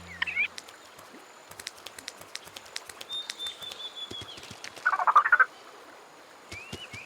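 Animated riverside ambience of frogs croaking, with scattered clicks and a loud croak about five seconds in, then a run of short rising chirps near the end.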